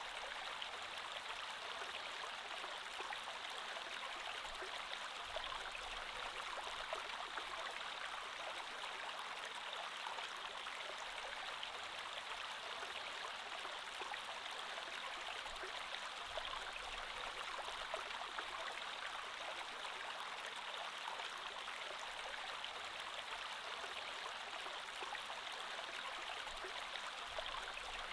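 Creek water flowing steadily over stones, an even rushing and burbling.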